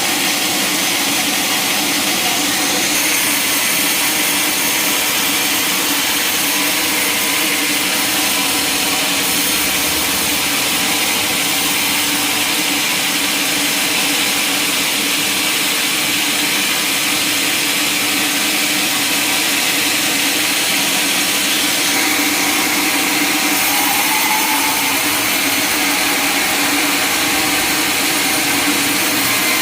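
Sawmill machinery running steadily: a loud, even machine noise with a constant hum that barely changes.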